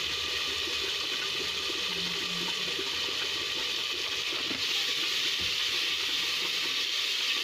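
Masala paste and spices sizzling in hot oil in an aluminium pressure cooker, a steady hiss that grows a little louder a few seconds in as a ladle stirs the mixture.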